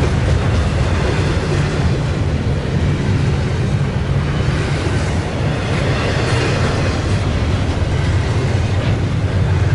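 Double-stack intermodal freight cars rolling past on steel wheels: a steady, loud low rumble with faint wheel-on-rail clicking.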